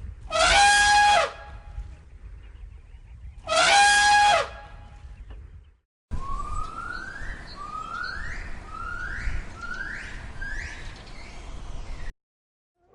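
Animal calls: two loud, high, horn-like calls about three seconds apart, then, after a cut, a run of five rising whistle-like calls about a second apart.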